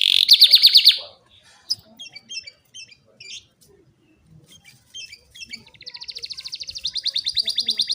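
Canary singing, its song tutored with lovebird and ciblek (bar-winged prinia) phrases. It opens with a fast trill, breaks into short scattered chirps and whistles, then goes into a long rapid trill that grows louder near the end.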